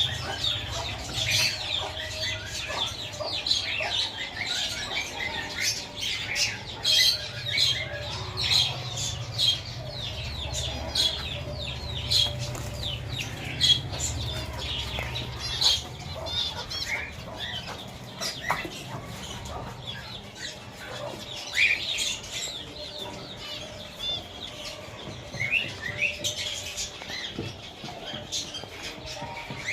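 A flock of small aviary birds chirping and calling together in a dense, continuous chatter, with frequent short clicks and flutters of wings.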